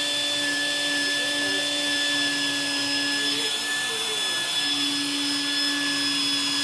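Vacuum cleaner running loud and steady, its motor whine holding one pitch over a rush of air.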